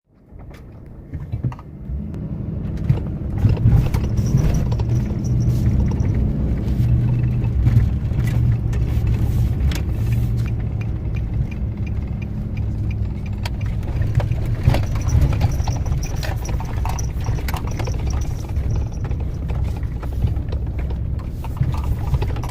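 Car on the move: a steady low engine and road rumble, with scattered small clicks and rattles. It fades in over the first couple of seconds.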